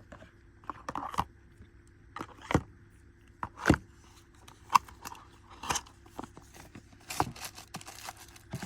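Unboxing handling: small items and packaging set down and picked up, a string of irregular clicks and taps with light plastic crinkling between them.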